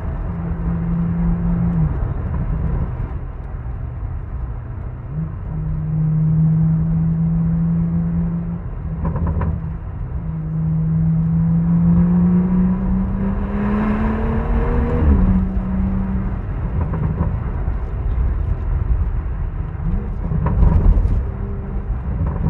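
A 2018 BMW M140i's turbocharged 3.0-litre straight-six, through a Remus cat-back exhaust, driven hard: the engine note holds, drops away as the throttle lifts and comes back several times, with one long rising pull about halfway through before it cuts off. Steady wind and road noise run underneath, and a few sharp cracks come as the throttle closes, the loudest near the end.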